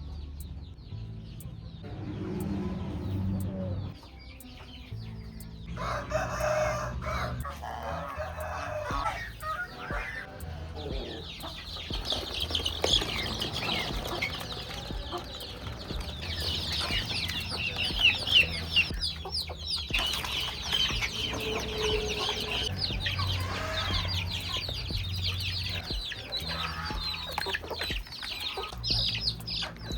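Chickens clucking and a rooster crowing. From about ten seconds in there is dense, rapid, high-pitched chirping.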